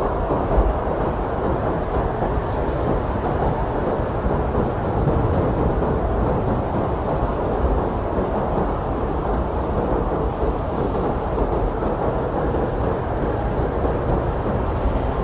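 Strong blizzard wind blowing steadily: a dense, deep rush of noise with most of its weight low down, holding an even loudness throughout.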